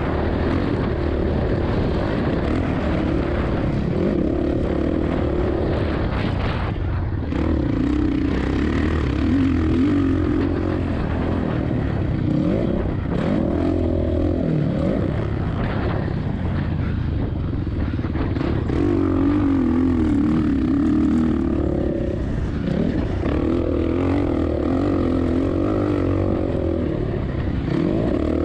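2007 Suzuki RM-Z450's 450 cc four-stroke single-cylinder engine ridden hard on a motocross lap, its pitch rising and falling again and again as the throttle opens and closes, with wind rumbling on the microphone.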